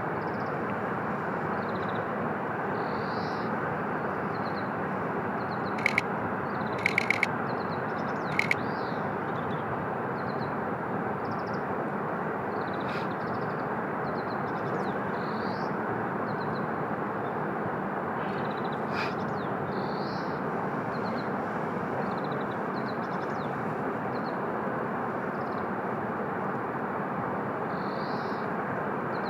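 Steady outdoor rushing noise with small birds chirping over it, and a few sharp clicks about six to eight and a half seconds in.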